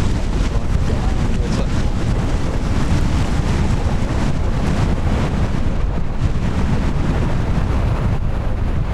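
Strong wind buffeting the microphone, with water rushing past the hulls of a Tornado catamaran sailing fast in about 22 knots of wind; a steady, loud roar.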